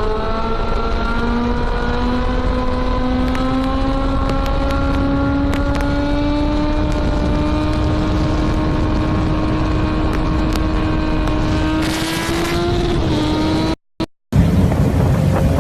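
Motorcycle engine run hard at wide-open throttle near its redline, one steady engine note climbing slowly as the bike gains speed in a high gear. About 14 seconds in the sound cuts out for a moment and a rougher engine sound follows.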